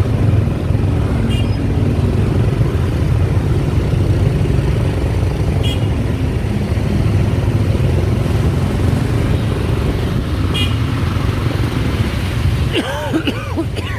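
Steady rumble of a motorbike ride through city traffic, engine, road and wind noise heard from the pillion seat, with a few brief horn toots. A short gliding pitched sound comes near the end.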